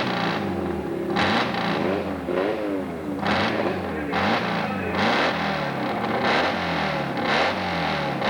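Hill-climb motorcycle engine revved hard again and again, the pitch jumping up and then falling away roughly once a second.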